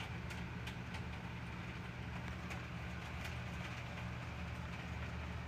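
A steady low hum with a faint hiss over it and a few faint ticks scattered through.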